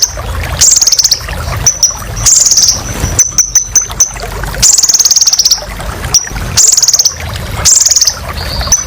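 Kolibri ninja sunbird singing: about five high, rapid trills, each under a second long, broken up by short sharp chips, over a low rumble.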